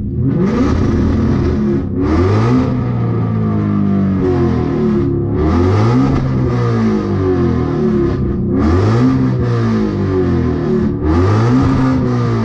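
Straight-piped Ford Mustang (S550) with headers revved hard again and again, the engine pitch climbing and dropping back about five times, each rev a couple of seconds long.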